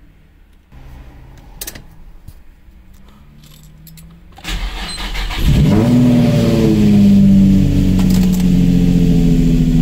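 A few faint clicks, then about four and a half seconds in the 3.5-litre VQ35DE V6 of a Nissan Skyline 350GT (G35) is cranked by the starter. It catches within about a second, flares up in revs and settles into a steady idle. This is its first start after sitting about a year and a half, on fresh oil.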